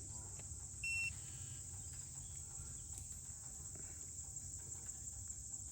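Insect chorus of crickets, a steady high-pitched trilling, over a low rumble, with a single short beep about a second in.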